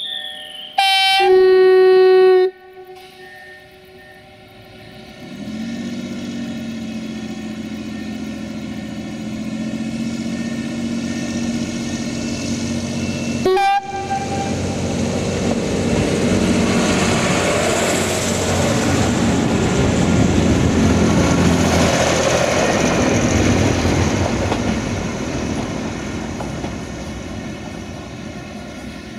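Diesel passenger train sounding a loud horn blast of about a second and a half, then its engine grows louder as it approaches. A brief second toot of the horn comes about halfway through, and the train passes by, its engine and wheel noise swelling and then fading.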